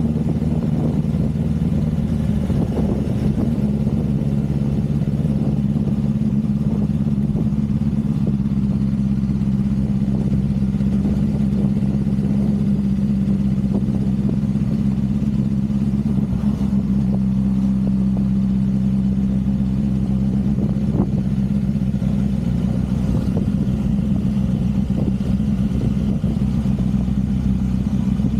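Motorcycle engine running steadily while riding along at an even speed, its note holding nearly level and shifting only slightly in pitch, with a single short click about two-thirds of the way through.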